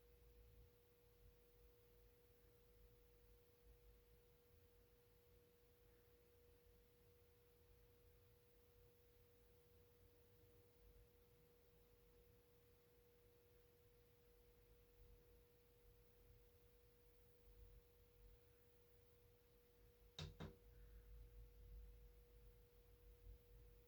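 Near silence: room tone with a faint steady hum at one pitch, and a single sharp tap about twenty seconds in.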